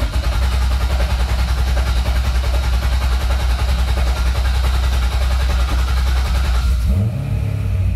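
The starter cranks the 7.0 L LS7 V8 of a Corvette C6 Z06 steadily for about seven seconds, with the accelerator held to the floor so the engine spins without firing, to push fresh oil through and build oil pressure. Near the end the cranking gives way to a rising engine note that settles into a steadier idle.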